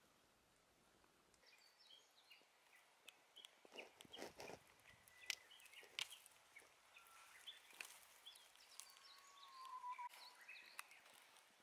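Faint wild birds chirping in scattered short notes, with one longer whistled note near the end, over near silence. A few soft clicks and crackles come around the middle.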